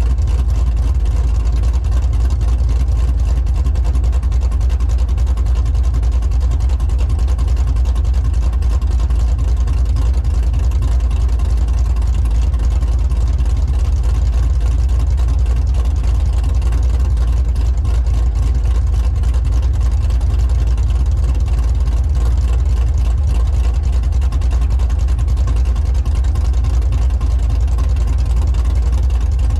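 Cammed 5.3 LM7 V8 of a 2000 Chevrolet Silverado, with a TSP 224R camshaft and long-tube headers, idling steadily with a deep, even exhaust note.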